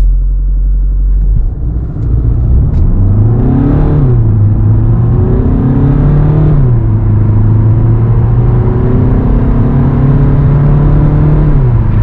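Alfa Romeo Giulietta's 2.0 JTDm four-cylinder turbodiesel pulling hard at full throttle from a standstill. The engine note climbs, then drops sharply as the TCT twin-clutch gearbox shifts up about four and about seven seconds in, climbs more slowly in the next gear, and falls away near the end.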